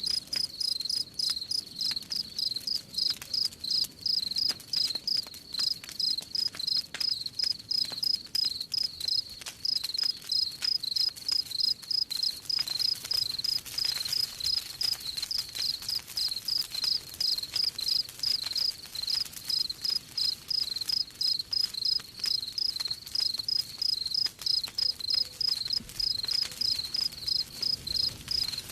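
Crickets chirping in an even, high-pitched rhythm of about three chirps a second, with a wood fire crackling faintly underneath.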